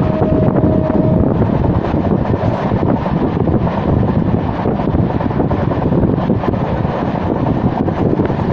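Steady, loud running noise of a passenger train moving at speed, heard from beside a window: wheels on the rails and the rush of air. A short, steady whine sounds over it in the first second or so.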